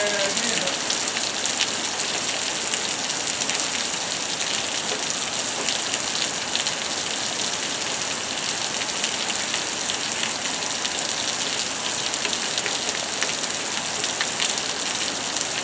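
Steady rain from a thunderstorm: a dense, even hiss with many small drop hits throughout.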